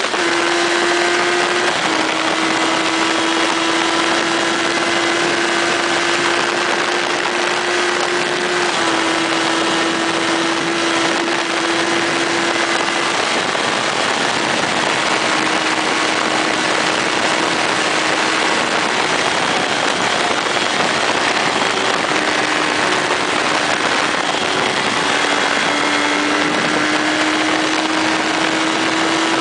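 Motorcycle engine running at a steady cruising pace under heavy wind rush. The engine note holds level and steps down or up a few times.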